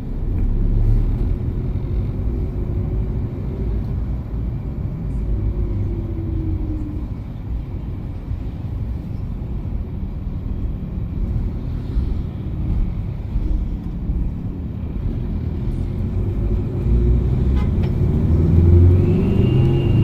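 Vehicle engine and road noise while riding in traffic: a steady low rumble with the engine's pitch sliding up and down, and a short high tone near the end.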